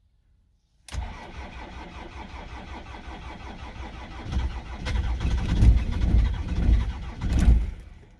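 A frozen BMW diesel engine being cranked by its starter after glow-plug preheating: the cranking starts abruptly about a second in, grows louder and more uneven about four seconds in, then stops near the end without the engine starting, a failed first cold-start attempt.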